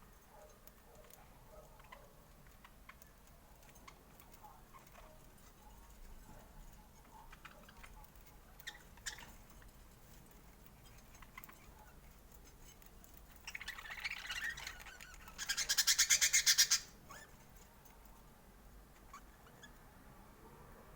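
Budgerigars chirping and clicking softly, then chattering about two-thirds of the way in, followed by a loud, harsh, rapidly pulsed squawk lasting under two seconds.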